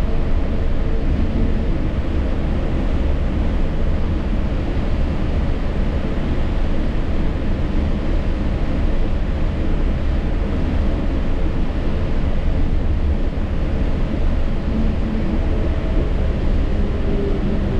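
Yurikamome rubber-tyred automated guideway train running, heard from the front cab: a steady low rumble and hiss, with a faint whine that drops in pitch near the end.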